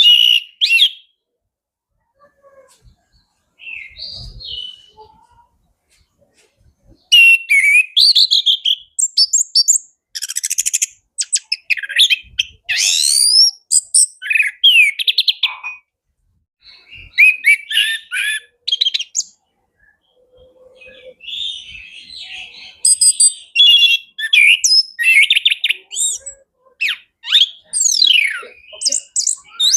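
Orange-headed thrush (anis kembang) singing a loud, varied song of quick whistled phrases, glides and fast trills, packed with fill-in phrases. It opens with a short call, a few quiet seconds and another brief phrase, then runs on in dense bursts with short pauses.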